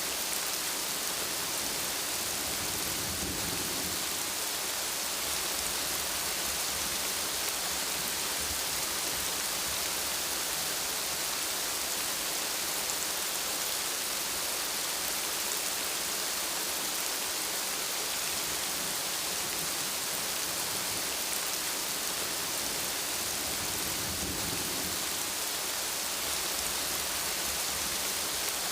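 Steady rain falling, with faint low rumbles of thunder twice: a few seconds in and again near the end.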